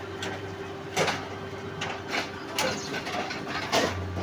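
Track maintenance machinery running with a steady hum, with a few sharp knocks about a second or more apart, during sleeper replacement.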